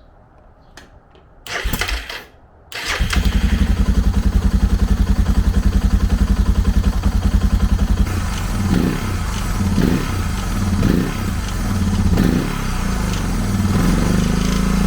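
Suzuki DR650's single-cylinder four-stroke engine on the electric starter: a brief crank, then it catches about three seconds in and idles evenly. From about eight seconds in the throttle is blipped several times. Mixed into the engine sound is a vibration noise that the owner had feared was inside the motor but traces to a missing screw.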